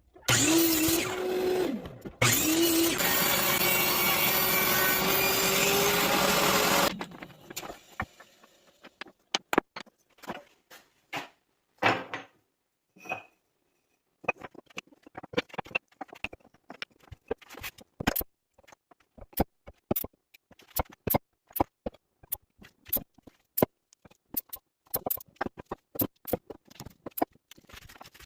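A woodworking power tool runs loud and steady, its motor pitch dipping briefly a couple of times as it bites into wood, then switches off about seven seconds in and spins down. After that come scattered sharp clicks and taps, irregular and of varying loudness.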